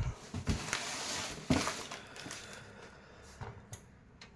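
Handling noises: a few soft knocks, with a rustling noise in between over the first second and a half, then faint scattered clicks.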